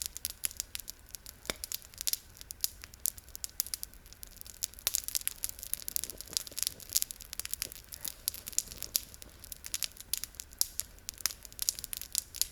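Crinkly rustling and crackling of packaging, a bag being rummaged through for sweets, in many irregular sharp crinkles.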